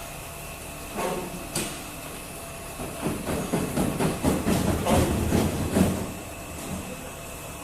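Blocks of ice knocking and scraping as they are handled, in an irregular clatter that grows loudest between about three and six seconds in, over a steady engine hum.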